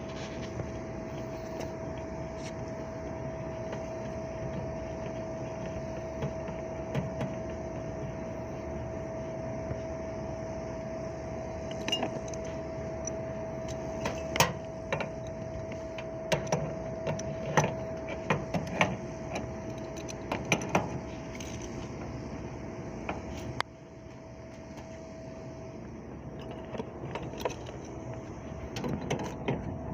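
Scattered metallic clinks and taps, like tools or metal parts being handled, over a steady machine hum with a constant thin whining tone. The clinks cluster around the middle. The background hum drops suddenly about three quarters through.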